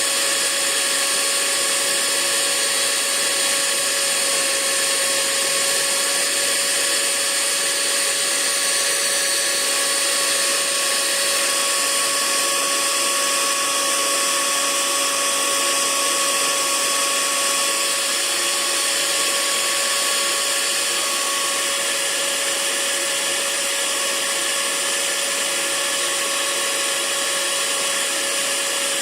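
Hair dryer running continuously: a steady, even hiss of blown air with a constant motor hum underneath, used as white noise.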